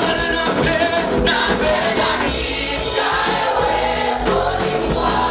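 Gospel praise music: a choir singing with a live band, with a steady bass line.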